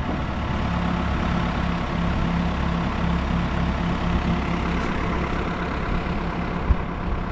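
New Holland backhoe loader's diesel engine running steadily at low revs, with one short knock near the end.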